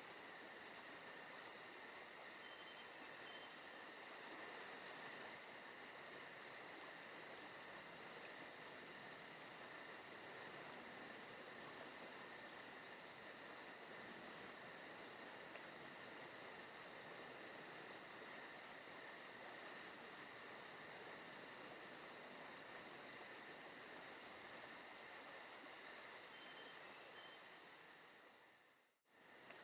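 Forest ambience recording of crickets and other insects chirping, faint and steady, with a fast, even trill over a continuous high drone. The sound dips out briefly near the end and comes straight back.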